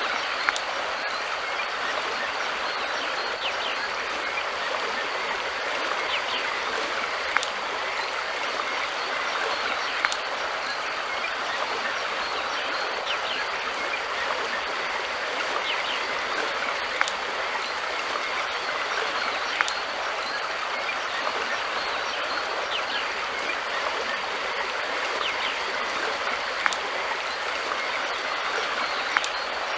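River water flowing steadily, a continuous rushing hiss with no change in level. Sharp little clicks stand out every few seconds.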